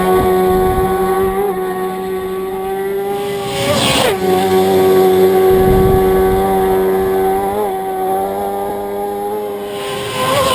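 Racing motorcycle engines at high revs passing at speed. One sweeps past about four seconds in with a sharp drop in pitch, and another does the same near the end, while a high-pitched engine note holds steady in between.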